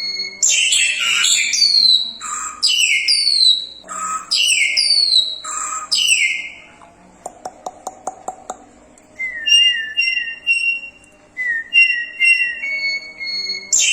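Jalak hongkong (crested myna) singing: loud, varied whistled phrases with quick falling notes, broken about halfway by a quieter run of rapid clicks, then whistling again.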